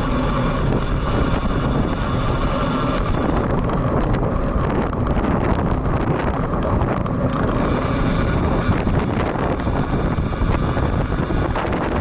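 Steady wind buffeting on the built-in microphone of a bicycle-mounted action camera riding in strong typhoon wind, a constant low rumble with no break.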